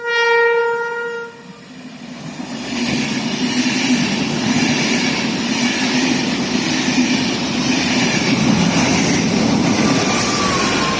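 Train horn sounding one loud, steady blast of about a second and a half, in answer to a thumbs-up from trackside. The train then passes at speed, its rumble and rail clatter building from about two seconds in and holding.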